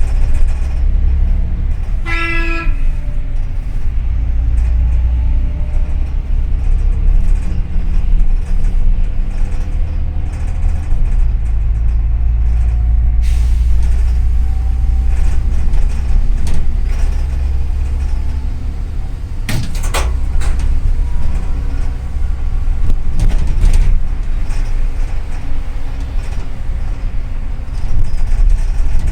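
Steady low rumble of a double-decker city bus's engine and running gear, heard from inside as it drives. A short vehicle horn toot sounds about two seconds in, and a sharp knock or rattle comes about two-thirds of the way through.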